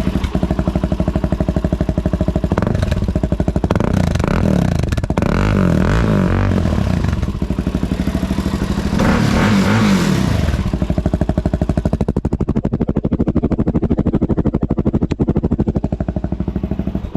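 Suzuki DR-Z400's single-cylinder four-stroke engine running loud through a Black Widow aftermarket slip-on exhaust. It is blipped up and back down several times in the first ten seconds, then settles to a steady idle.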